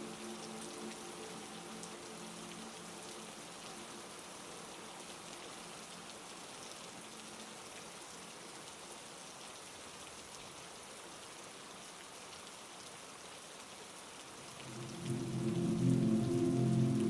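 Heavy rain falling steadily, an even hiss of drops. A soft sustained low chord fades out in the first couple of seconds, and a louder one swells in about fifteen seconds in.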